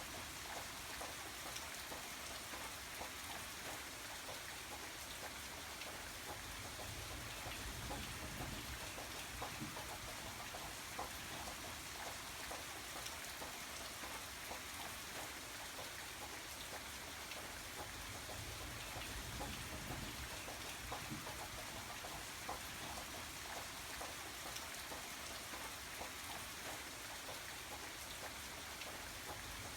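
Steady rain, an even hiss with the scattered patter of individual drops throughout.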